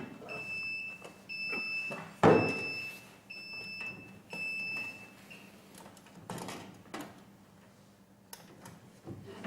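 Sublimation heat press machine's buzzer beeping to signal the end of the heating time: a high beep about once a second, five times, stopping about five seconds in. A loud knock comes about two seconds in, with a few softer knocks later.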